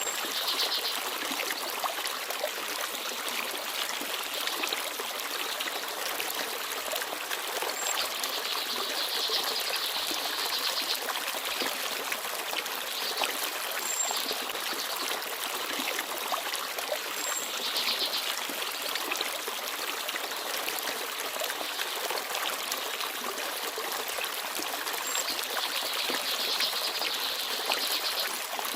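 Forest stream babbling and trickling steadily. A few faint, very short high chirps from small birds come through now and then.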